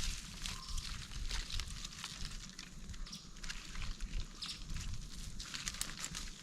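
Irregular crackling and rustling of leaf litter and twigs on the forest floor, many small clicks, as the ground is worked by hand to plant a fallen epiphyte.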